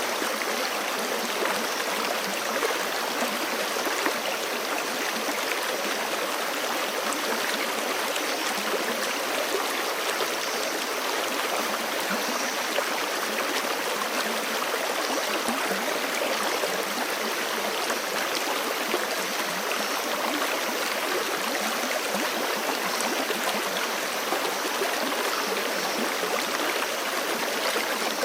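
Forest creek flowing steadily over rocks, a constant rushing of water with small splashes and gurgles in it.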